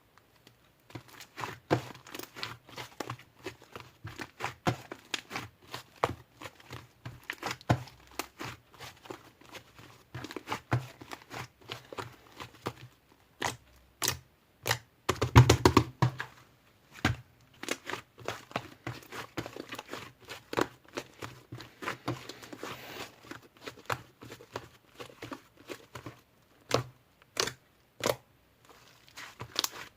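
Slime being squished, pressed and stretched by hand, giving a dense run of sharp clicking and crackling pops, loudest about halfway through.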